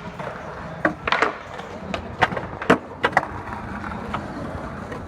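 Skateboard clacking: a run of sharp knocks of the board, about seven between one and three seconds in, the loudest near the end of the run.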